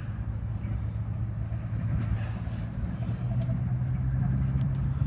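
A steady low engine hum that rises slightly in pitch about three seconds in.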